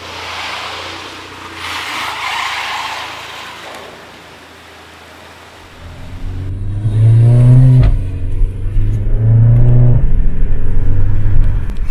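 Skoda Octavia RS with an aftermarket APR cat-back exhaust, accelerating hard. A few seconds of quieter rolling hiss come first, then the engine note comes in loud about six seconds in and rises in pitch, drops at a gear change, and climbs again.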